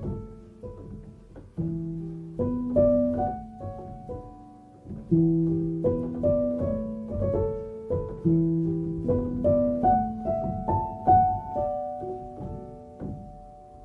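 Background music: solo piano playing a gentle, repeating phrase of notes.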